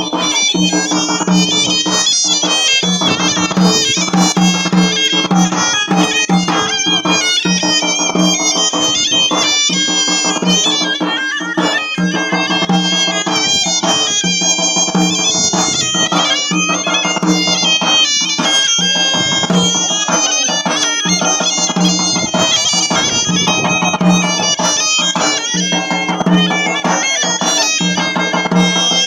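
Band music: a reedy wind instrument plays a busy, ornamented melody over a steady low drone, with percussion.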